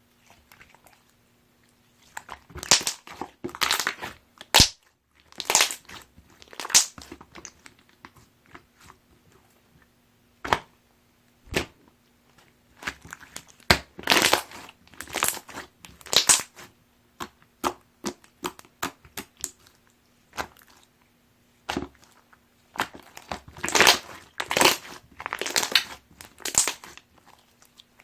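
Pink pudding-textured slime being squeezed, stretched and poked by hand, giving bursts of sticky crackling and popping clicks with short pauses between them.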